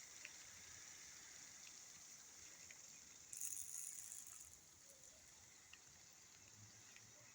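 Faint rain: a steady high hiss with a few light drip ticks, and a brief louder burst of hiss about three seconds in.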